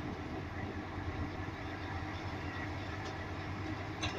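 A car's engine running at low speed, heard from inside the cabin as a steady low hum, with a couple of faint ticks near the end.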